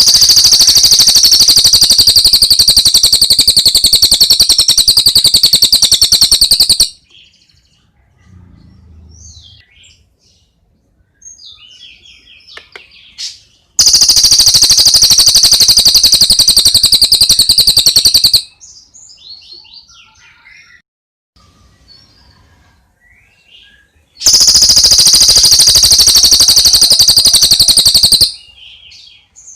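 Bird song recording: a very loud, rapid high-pitched trill in three long bursts of about four to seven seconds each, with faint short chirps in the pauses between.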